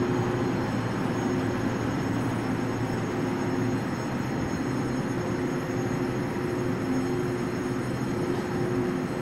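Electric passenger train moving slowly through the station below: a steady rumble with a low, even hum.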